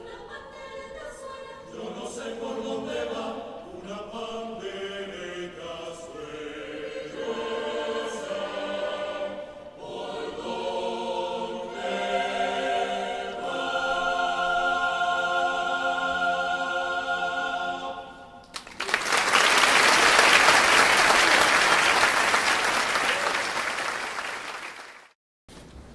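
Mixed choir singing a cappella in several parts, closing on a long held chord, followed by about six seconds of audience applause that cuts off abruptly near the end.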